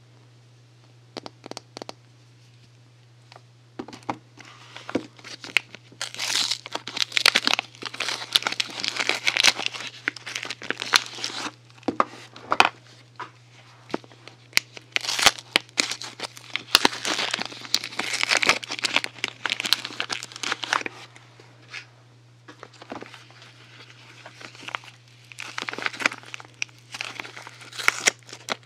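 Soap packaging being unwrapped by hand: wrappers crinkling, rustling and tearing open in dense spells with short pauses, starting after a few scattered clicks. A steady low hum runs underneath.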